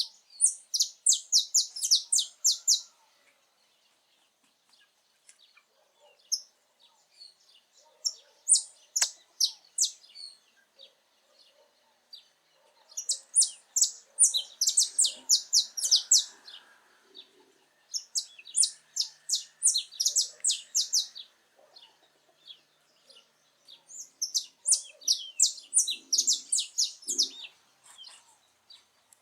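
Saffron finch singing: bouts of rapid, sharp high notes, about five phrases separated by pauses of a few seconds.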